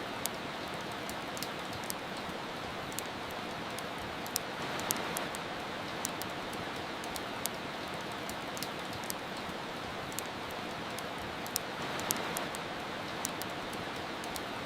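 Steady rain hiss mixed with the irregular sharp crackles and pops of a wood fire, about one or two pops a second. The rain swells briefly twice.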